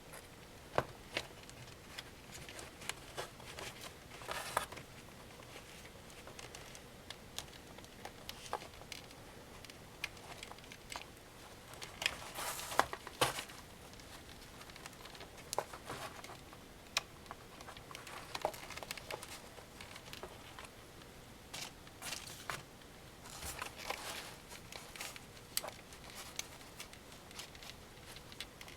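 Scattered small clicks, taps and rustles of hands working on the plastic headband of AKG K240 headphones while fitting a new elastic loop. Short bursts of clicking come in clusters, with quiet stretches between.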